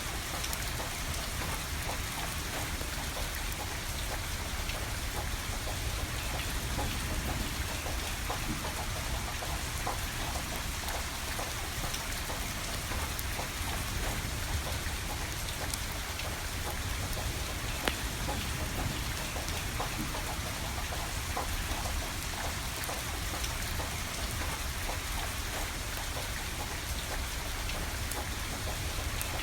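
Steady rain falling and pattering, with a wood fire crackling among it; one sharper snap about two-thirds of the way through.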